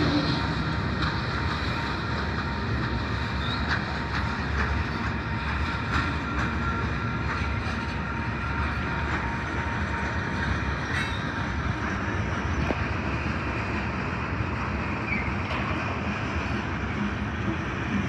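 A train rolling past close by: a steady rumble of wheels on rail, with occasional clicks as the wheels cross rail joints.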